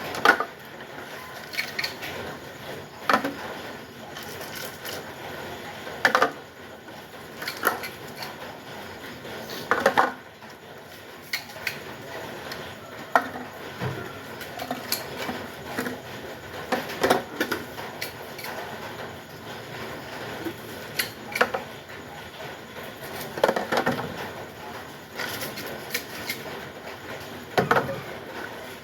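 Irregular knocks and clatter of hard objects being handled, a sharp knock every one to three seconds over a steady background hiss.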